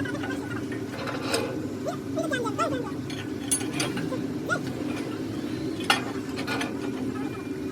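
Steady low machine hum with several sharp metallic clinks of tools on metal, and faint voices in the background.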